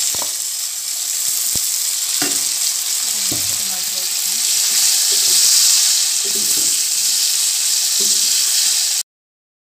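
Chopped tomatoes and onions sizzling loudly in hot oil in a non-stick pan, stirred with a wooden spoon that knocks against the pan a few times. The sizzle cuts off suddenly about nine seconds in.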